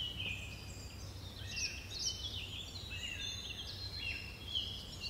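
Several small birds singing: a busy run of short chirps and gliding whistled notes over a low, steady background noise.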